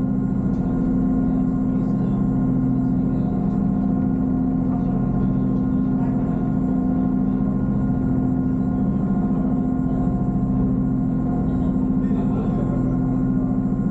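A steady, constant-pitched mechanical drone with a low rumble underneath, like a large engine running at an even speed.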